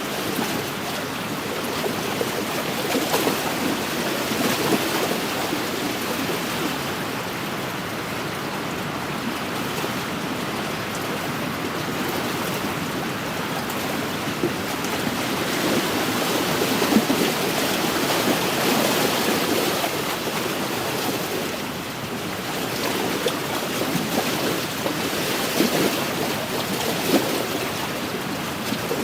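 Wind-driven waves lapping and splashing against a lakeshore: a steady wash of water with small irregular splashes.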